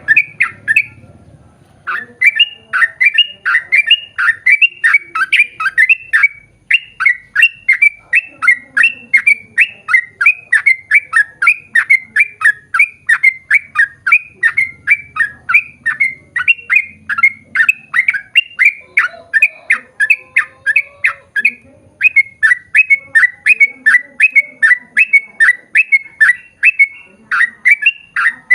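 Yellow-vented bulbul (trucukan) singing a long, fast run of short repeated chirping notes, about three a second, with a brief break about a second in.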